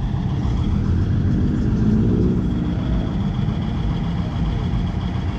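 Car engine running with a low rumble as the car drives slowly past, loudest about two seconds in.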